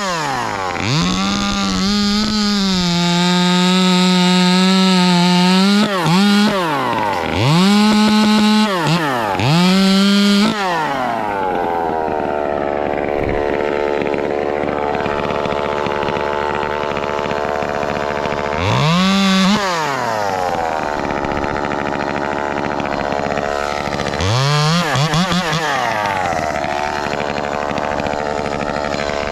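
Ported Echo 2511T top-handle two-stroke chainsaw held at full throttle for a few seconds, dropped and revved again, then idling with two short throttle blips near the end.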